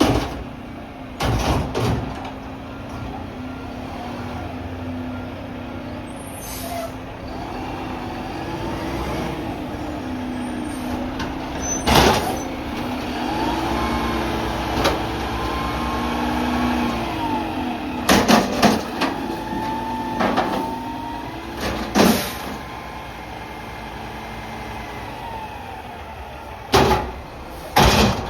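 Mack MRU McNeilus front-loader garbage truck working: the engine runs steadily under a whine that rises and falls through the middle. Several loud, sudden clanks and air-brake hisses come near the start, about twelve seconds in, around eighteen to twenty-two seconds, and near the end.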